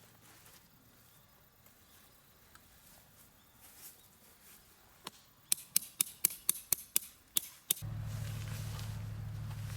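A quick series of about ten sharp strikes from a tool, roughly four a second, starting about five seconds in. A steady low hum starts right after them, near the end.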